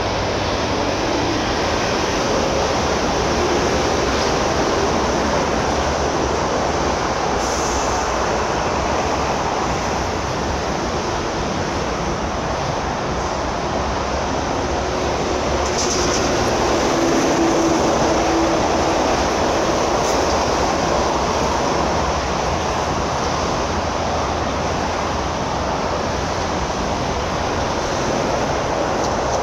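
Steady rolling noise of a train running on the railway line, swelling a little around the middle.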